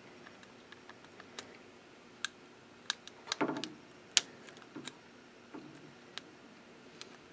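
Small plastic clicks and taps from hands fitting a 3D printer's display ribbon cable into its connector, with a brief scraping rattle a little past the middle and a sharp click about four seconds in.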